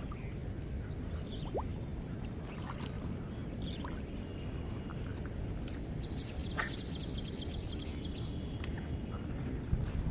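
Outdoor ambience dominated by a steady low rumbling noise, with a few faint clicks and a brief rapid high trill about two-thirds of the way through.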